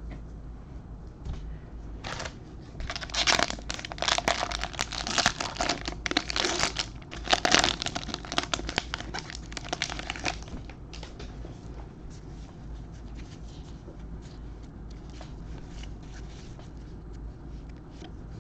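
Wrapper of a trading card pack crinkling and tearing as it is opened, busy for about eight seconds from two seconds in, then fading to light rustles and clicks of cards being handled.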